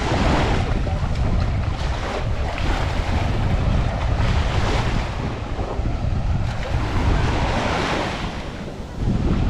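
Surf washing up a beach, the hiss of each wave swelling and fading every couple of seconds, over heavy wind rumble on the microphone.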